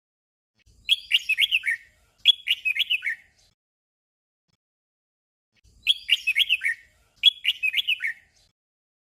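Red-whiskered bulbul singing a short phrase of quick warbling notes twice in a row, a doubled song, and then the same doubled phrase again a few seconds later.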